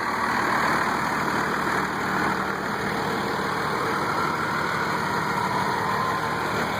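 1990 Dodge pickup's 5.9-litre Cummins turbo diesel idling steadily.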